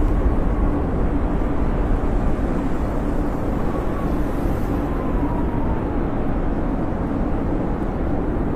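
Blizzard wind: a steady, low rushing roar with a faint whistle that drifts slightly down in pitch around the middle.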